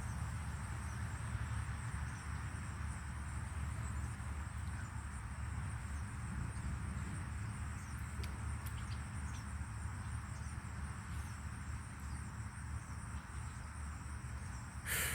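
Steady outdoor chorus of insects, likely crickets, as a continuous high-pitched drone, over a low rumble. A brief louder noise comes near the end.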